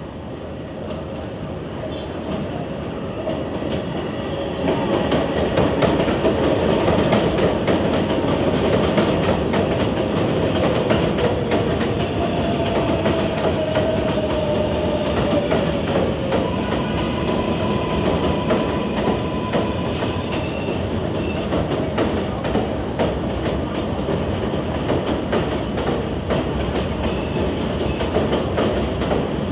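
New York City subway train running through an elevated station, wheels rumbling and clacking over the rail joints. The sound grows louder about five seconds in, with a faint wheel squeal gliding down in pitch midway and another held briefly just after.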